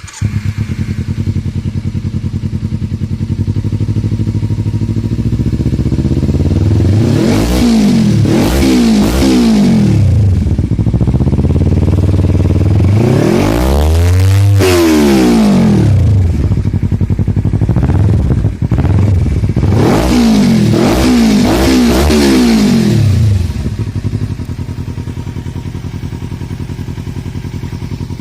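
Kawasaki Ninja 300's parallel-twin engine, breathing through an Akrapovic exhaust with the dB killer removed, fires up and idles. It is then revved in a few quick throttle blips, one longer rev that rises and falls, and another run of blips, before settling back to a steady idle near the end.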